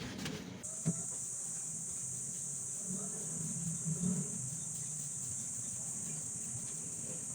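Steady high-pitched insect drone, like crickets, starting abruptly about half a second in.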